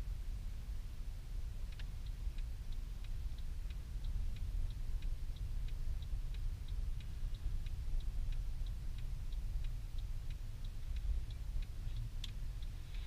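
Turn-signal indicator clicking steadily, about three clicks a second, starting a couple of seconds in over the low, steady rumble of the car's engine and tyres heard from inside the cabin. One sharper click comes near the end.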